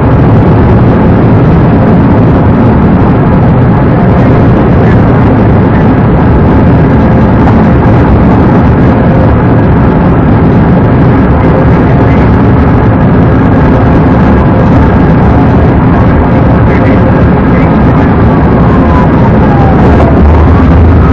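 Steady, loud engine and road noise of a police cruiser driving fast, picked up by its dashcam. Near the end a siren wail sweeps down and then up.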